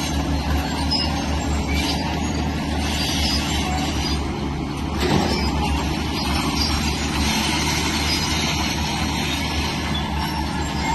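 Shantui bulldozer's diesel engine running steadily, a deep continuous drone with a hiss of mechanical noise above it.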